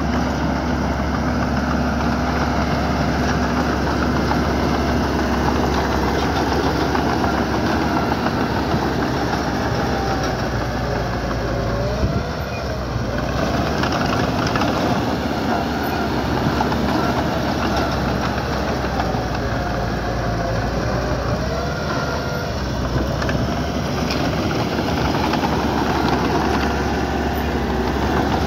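Diesel engine of a small construction machine running steadily under work, with a wavering whine that rises and falls around the middle and again later on.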